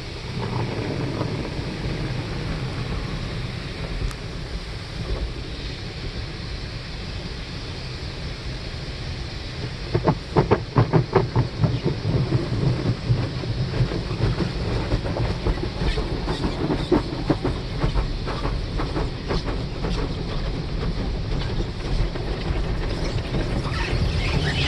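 Automatic express car wash tunnel equipment running: a steady rush of spraying and machinery, with a run of rapid, evenly spaced pulses about ten seconds in and looser ones after.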